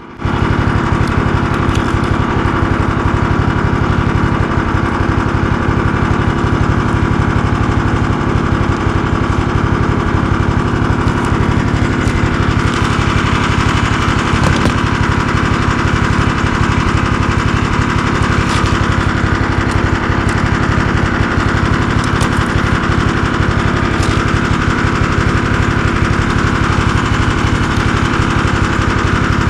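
Snowmobile engine running steadily with a fast, even beat, cutting in abruptly.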